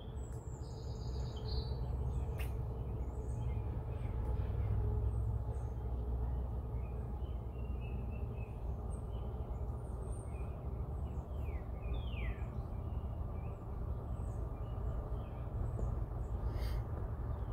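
Birds chirping and calling, with a few short, quick falling notes near the end, over a steady low rumble.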